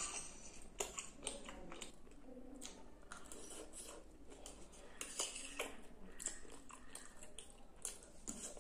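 Chewing and slurping of Maggi noodles and macaroni: soft, wet mouth sounds with irregular small clicks, and now and then a fork tapping on the plate.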